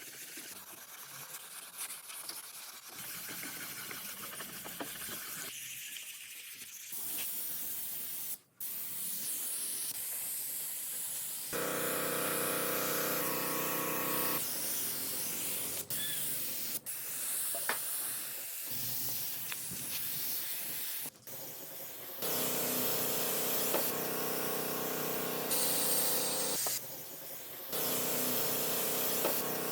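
A hissing spray in a string of short clips that cut in and out abruptly, with a steady machine hum under the hiss in some of them.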